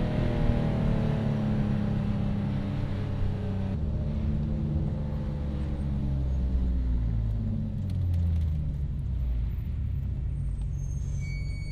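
BMW E46 M3's S54 straight-six through a straight-piped exhaust: the engine note falls as the car comes off the throttle, then runs at low revs with a slight rise and fall. Road noise runs underneath.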